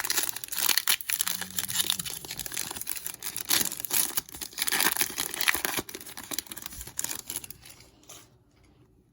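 Foil wrapper of a 2021 Panini Prizm football card pack being torn open and crinkled, a dense crackling that tapers off over the last few seconds.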